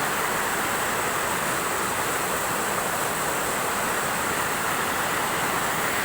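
Mountain river rushing over a waterfall: a steady, unbroken roar of white water.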